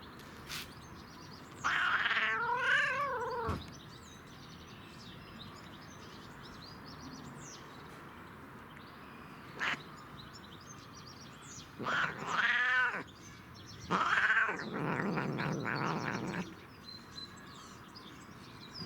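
Domestic cat on catnip making three long meows with wavering pitch, the first and last about two seconds each and a shorter one between. A short click comes about midway.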